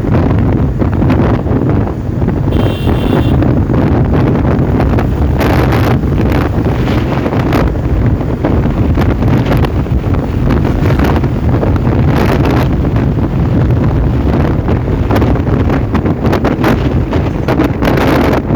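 Heavy wind buffeting the microphone of a moving motorcycle, over a steady low rumble of engine and road. A brief high-pitched tone sounds about three seconds in.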